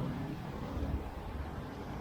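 Low, steady rumble of street traffic.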